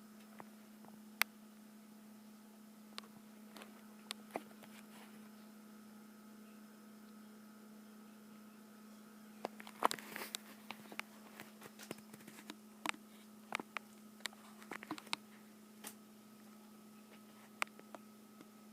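Scattered sharp clicks and taps, most of them bunched together in the middle stretch, over a faint steady hum.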